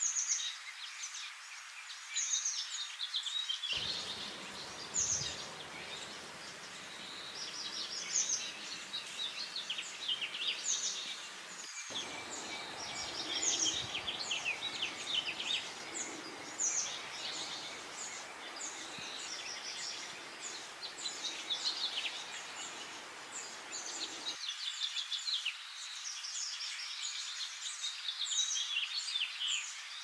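Songbirds chirping and singing, many short high calls and trills overlapping throughout, over a steady outdoor hiss. A faint low background rumble cuts in about four seconds in, drops out briefly near the middle and stops abruptly near the end.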